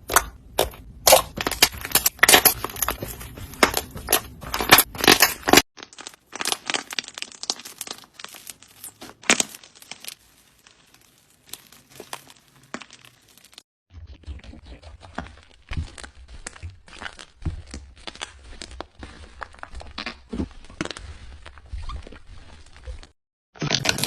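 Slime being squeezed and poked by hand, with dense, irregular crackling and popping. It comes in three stretches that start and stop abruptly, and the middle one is quieter.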